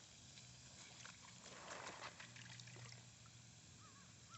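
Near silence: faint background noise with a low steady hum and a few soft clicks.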